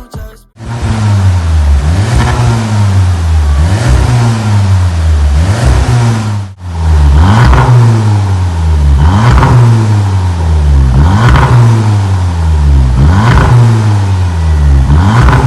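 Volkswagen Arteon R-Line's engine revved repeatedly through a Veleno stainless-steel valved cat-back exhaust, the pitch climbing and falling about once every two seconds, with a short break partway through.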